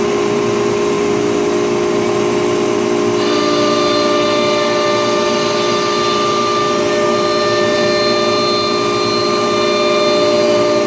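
Acctek ATC CNC router running, its spindle giving a loud, steady, high whine made of several held tones, with higher tones joining about three seconds in.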